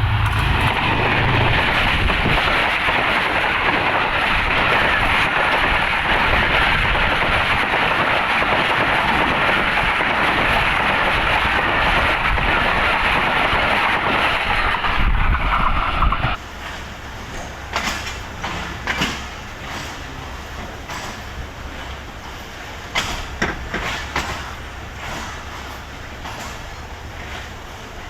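Passenger train moving, with loud, steady rail noise for about sixteen seconds that then drops suddenly to a quieter low hum with scattered clicks.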